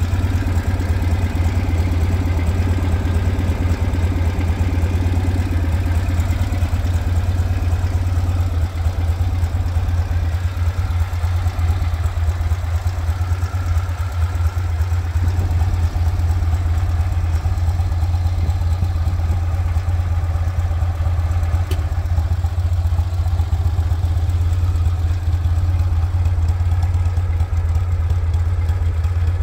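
1967 BMW R69S's air-cooled flat-twin (boxer) engine idling steadily after a warm start.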